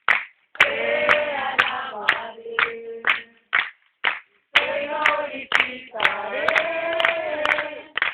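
A group singing a Spanish worship song together, clapping along in time about twice a second, with short breaks between phrases.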